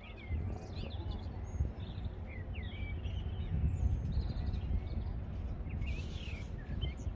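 Several small birds chirping and singing in short, quick calls, over a low, uneven rumble.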